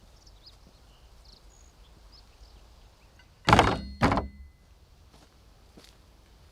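Two heavy thunks just over half a second apart, with a short metallic ring: a vehicle door being shut.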